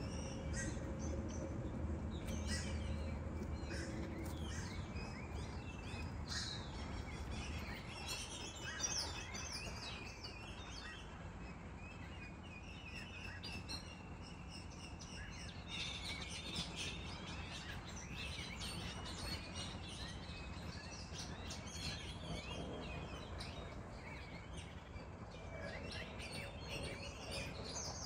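Small birds chirping, many short high calls coming thick and fast, over a steady low background rumble.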